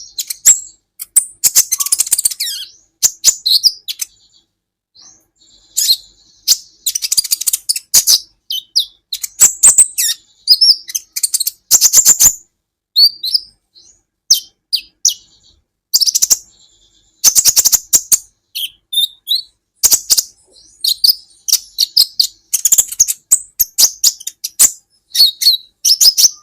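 Kolibri ninja sunbird singing: rapid, high, thin chirps and twittering trills in bursts a second or two long with short gaps between them.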